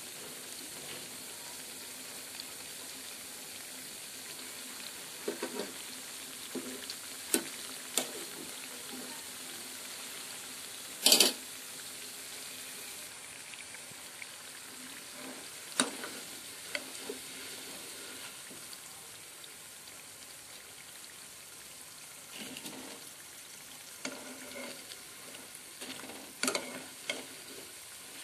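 Jackfruit-seed chops deep-frying in hot oil in a pan: a steady sizzle. A wire-mesh skimmer knocks and scrapes against the pan now and then as the chops are turned and lifted, with one sharp knock louder than the rest.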